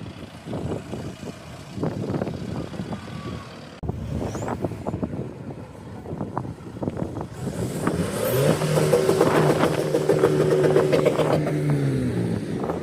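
A car's engine accelerating past: its note rises a little over halfway through, holds steady for a few seconds, then drops away near the end, over wind noise on the microphone.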